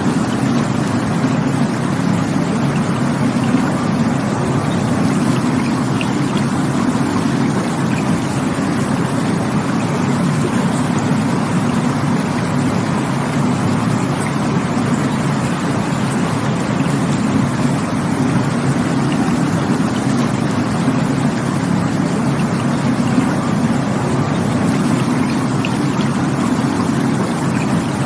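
Rushing water of a stream or waterfall: a steady, full rush that holds an even level, with no surges or pauses.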